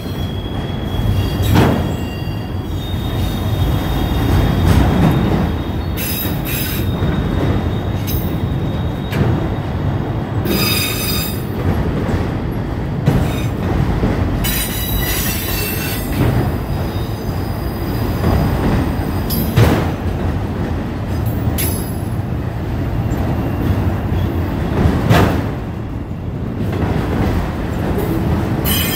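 BNSF train rolling across an old steel canal bridge: a steady loud rumble of wheels on rail, with high wheel squeal through roughly the first ten seconds and repeated metallic clanks throughout.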